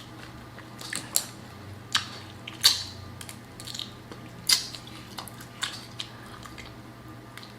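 A person eating close to the microphone: irregular sharp, wet clicks and smacks of biting and chewing, a handful of them louder than the rest.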